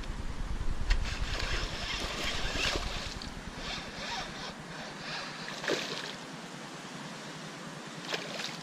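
Wind buffeting the microphone, heaviest in the first few seconds, with patches of hissing noise and a couple of short sharp clicks later on.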